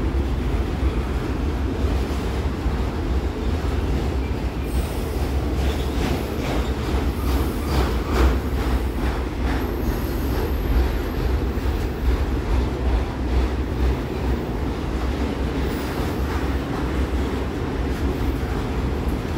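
Freight train crossing a bridge overhead: a steady low rumble of wheels and cars on the rails. Around the middle come a run of rhythmic clicking from the wheels and a brief high wheel squeal.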